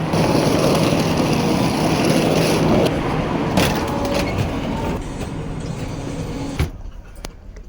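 A train at a station platform, with a steady low hum under a dense rushing noise that slowly fades over about five seconds. The sound drops away abruptly near the end.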